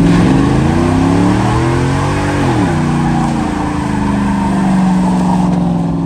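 Car engine revving high. Its pitch climbs for about two seconds, drops sharply, then holds high and nearly steady for the rest of the time.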